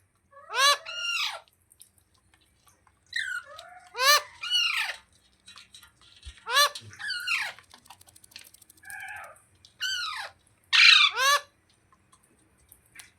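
Rose-ringed parakeet giving short squawking calls. About six bursts, each of two or three quick falling notes, come at uneven intervals with short pauses between.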